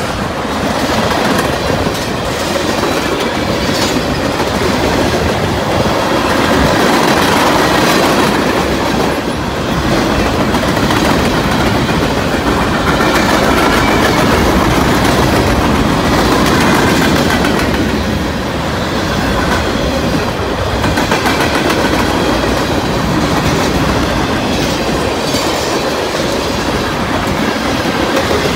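Mixed freight cars of a CSX manifest train (tank cars, boxcars, covered hoppers) rolling steadily past, their steel wheels running loudly over the rails.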